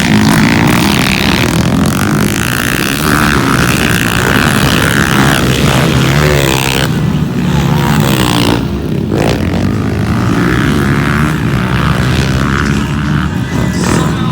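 Motocross dirt-bike engines revving hard, their pitch rising and falling as the bikes race.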